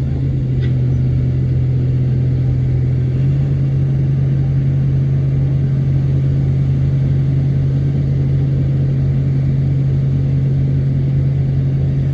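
Bulldozer's diesel engine running steadily with a deep, even drone; its pitch steps up slightly about three seconds in and then holds.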